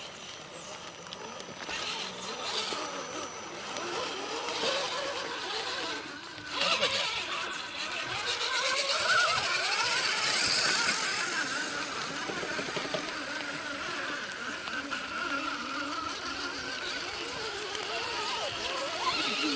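Electric motors and drivetrains of battery-powered RC rock crawlers whining, the pitch rising and falling as the throttle is worked, with a brief lull about six seconds in.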